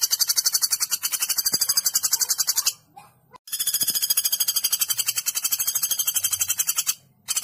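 Woodpecker giving a fast, high-pitched rattling call, a long run of rapid evenly spaced notes; it breaks off about three seconds in, resumes for another long run, and starts again just at the end.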